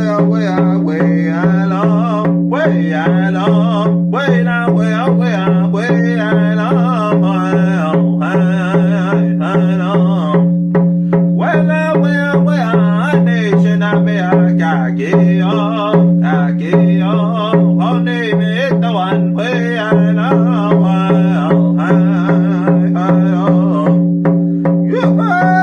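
Deer-hide hand drum struck in a steady beat of about two strokes a second, its low ring sustained under each stroke, while a singer carries a powwow-style straight song in vocables.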